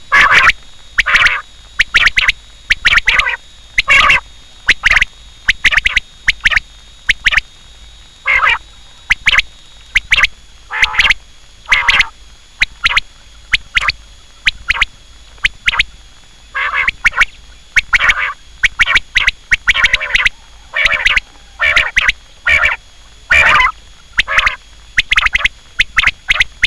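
Quail calling over and over: short, harsh calls, loud, coming irregularly, sometimes singly and sometimes in quick runs of two or three.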